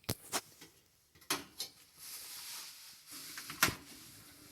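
Handling noises from an air-conditioner filter being worked in its slot: a few sharp clicks and knocks, and a soft sliding scrape from about halfway through.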